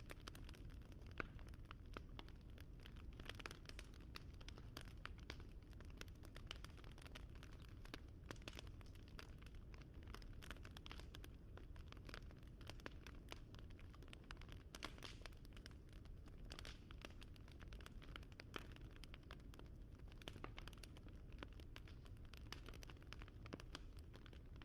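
Faint wood fire crackling: many small, irregular snaps and pops over a low, steady rumble.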